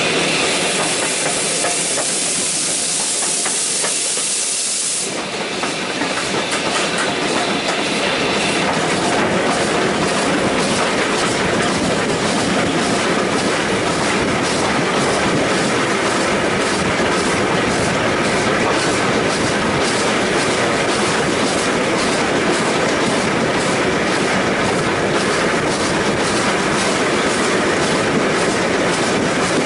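Steam-hauled passenger train running along, its wheels clicking over the rail joints under a steady rumble. A loud hiss sounds through the first five seconds, then drops away.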